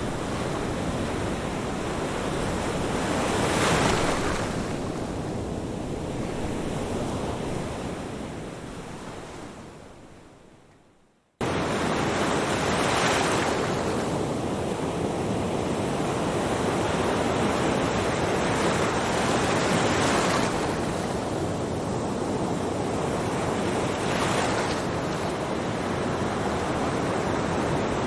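Ocean surf washing in, with waves swelling and breaking every few seconds. About a third of the way in it fades almost to silence, then a new stretch of surf cuts in suddenly and carries on with further wave swells.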